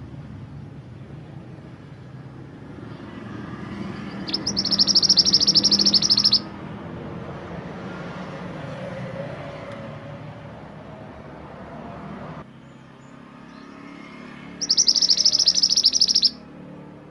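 Mantenan gunung songbird giving two loud, rapid, high-pitched trills of about two seconds each, roughly ten seconds apart, over a low background rumble that cuts out abruptly partway through.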